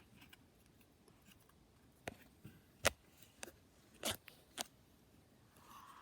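A pet bird's beak biting and crunching at the pages of a book: a handful of sharp, separate snaps, then paper starting to tear near the end.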